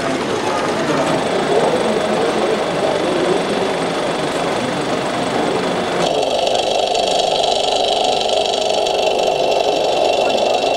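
Engine machinery running steadily. About six seconds in, the sound changes abruptly to a steadier running hum with several held tones.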